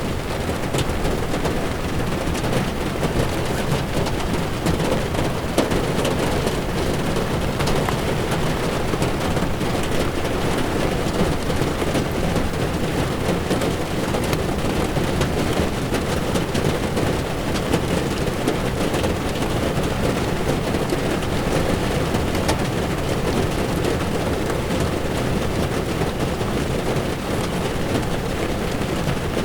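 Heavy rain drumming steadily on a moving car's windshield and roof, heard from inside the car, over the hiss of tyres on wet road and a low rumble from the car itself, with scattered fine drop ticks throughout.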